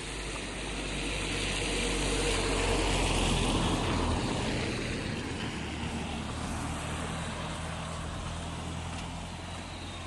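A motor vehicle passing by: its engine and tyre noise swells to its loudest about three to four seconds in, then fades with a falling pitch over a steady low hum.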